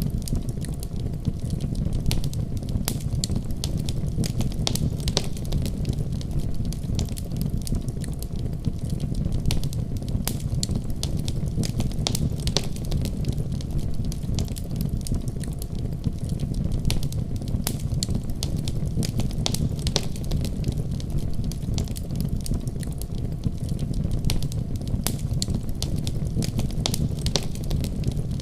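Fireplace crackling: rapid, irregular snaps and pops over a steady low rumble.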